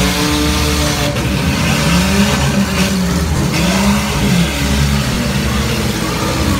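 Several compact demolition-derby cars' engines revving unevenly over a steady low rumble, their pitches rising and falling as the drivers accelerate and back off.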